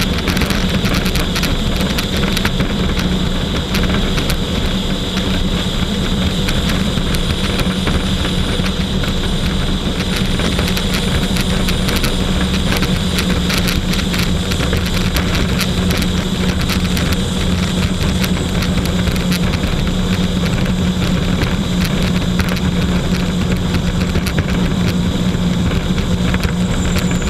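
Jet ski engine running at a steady speed under a constant rushing noise, with many small sharp crackles.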